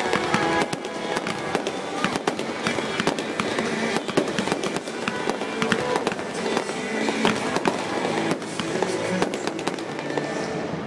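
Aerial firework shells bursting in quick succession, a dense run of bangs and crackles, with music playing underneath.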